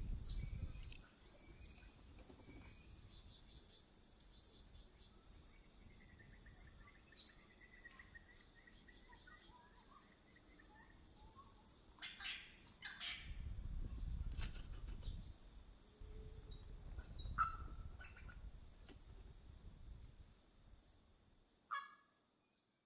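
Small birds chirping: a steady run of short, high chirps, with a few louder calls about twelve and seventeen seconds in. A low rumble comes and goes underneath.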